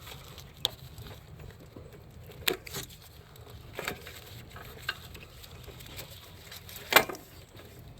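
Scattered light clicks and knocks from hands working plastic wiring connectors and their clips, the sharpest about seven seconds in, over a faint low hum.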